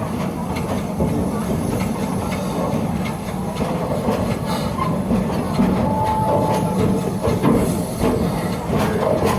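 Amusement-park train rumbling and clattering along its track, heard from aboard a passenger car, with a brief faint whine about six seconds in.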